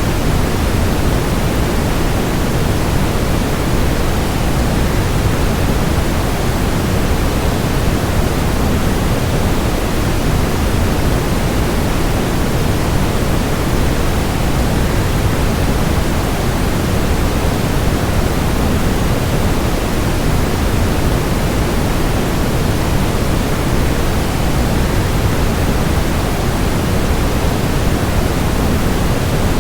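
Waterfall rushing, blended with white noise into one deep, even hiss that never changes.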